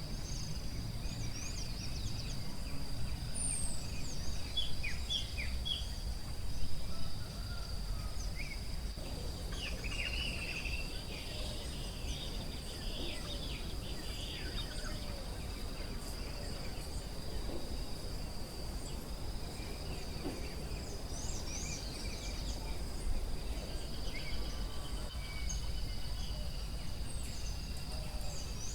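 Forest ambience: a steady high-pitched insect drone, with many short bird chirps and calls scattered through it, over a low rumble.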